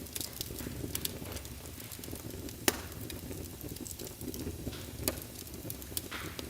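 Logs burning in a fireplace: irregular crackling and sharp pops over a steady low rush of the flames, with the loudest pop a little under three seconds in.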